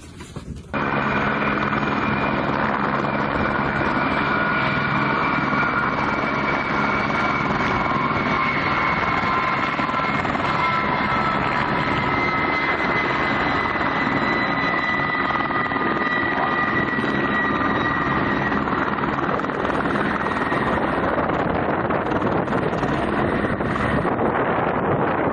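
Aircraft turbine engine running steadily, with a loud rushing noise and a high whine that slowly falls in pitch.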